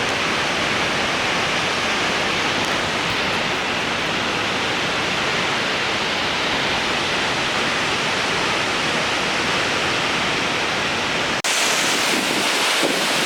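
Waterfall rushing, a steady, even roar of falling water. About eleven seconds in, the sound drops out for an instant and comes back brighter and hissier, with less low rumble.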